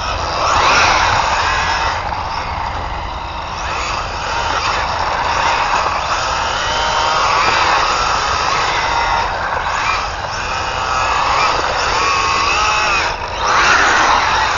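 Brushless electric drive of an ARRMA Infraction 3S RC car whining and repeatedly rising and falling in pitch as the car accelerates and slows, over a rushing noise of tyres on the ground. It drops away briefly about 13 seconds in, then swells again.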